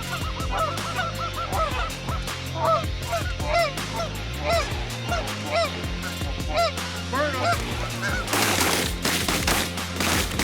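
Canada geese honking, many short rising-and-falling honks one after another. A brief rush of noise comes about eight and a half seconds in, and a low steady backing tone runs underneath.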